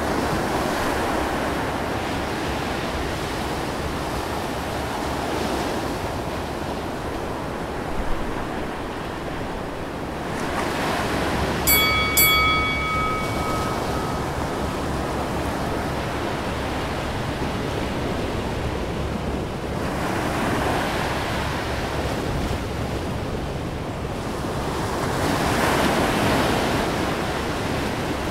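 Sea waves washing, with wind on the microphone, rising and falling in slow surges. About twelve seconds in, two sharp clicks are followed by a short ringing tone that fades away.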